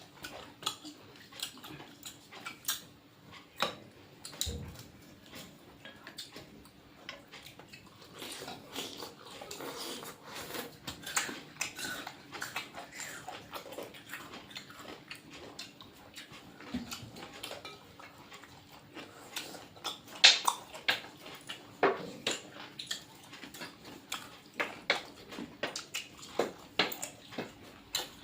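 Plates and utensils clinking and tapping during a meal, as food is mixed and picked up. The taps come irregularly throughout, with a few louder clinks about twenty seconds in.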